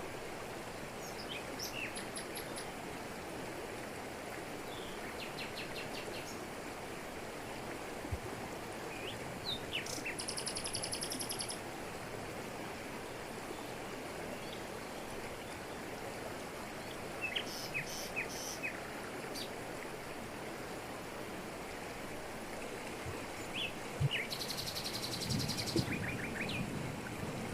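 Steady rush of a jungle waterfall falling over rocks, with scattered short bird chirps throughout and two high, fast-pulsed buzzing calls, one about ten seconds in and one near the end.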